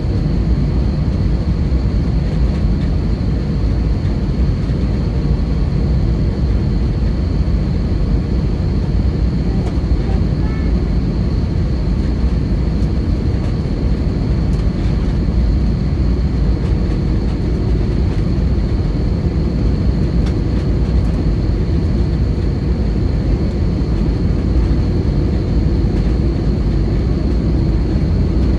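Airbus A320 cabin noise heard from a window seat: a steady low rumble of the jet engines and airflow, with a faint steady high whine over it.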